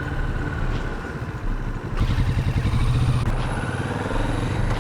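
Kawasaki Vulcan 650 motorcycle's parallel-twin engine running on the move, getting louder about two seconds in.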